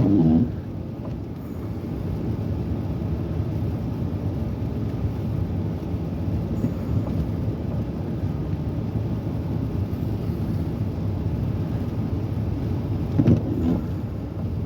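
Steady low rumble of a car's tyres and engine heard from inside the cabin while driving on a snow-covered road.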